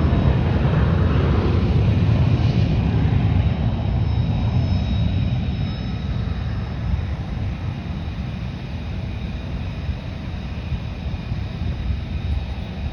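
Fixed-wing aircraft engines rumbling and slowly fading as the plane moves away, with a faint high whine above the rumble.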